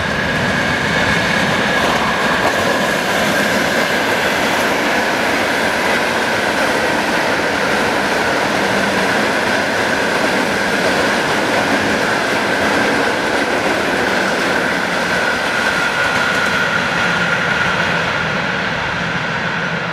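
Electric commuter train passing close by: a steady, loud rumble and rush of wheels on rail, with a high whine that drifts slightly lower as it goes.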